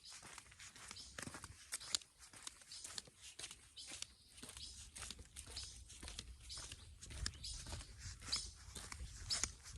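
Footsteps crunching on a dirt or gravel trail, a dense run of small irregular clicks and crackles, with a low wind rumble on the microphone from about six seconds in.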